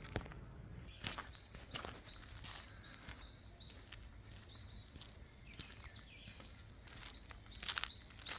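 A songbird singing runs of short, high, repeated notes, about three a second, with pauses between the runs. A few footsteps on a path sound among them, most plainly near the end.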